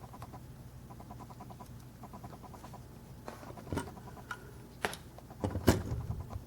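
Light rapid clicking and scratching, then a few sharper taps and knocks from about three seconds in: a 1/50-scale diecast model truck being handled and turned over by hand.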